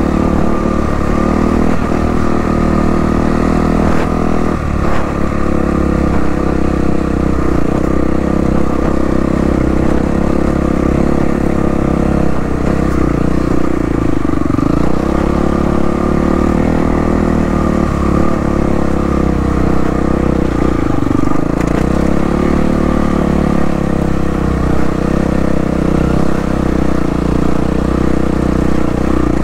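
Yamaha WR450F single-cylinder four-stroke dirt bike engine running under steady throttle while riding. The revs dip briefly twice, about halfway through and again about two-thirds of the way in.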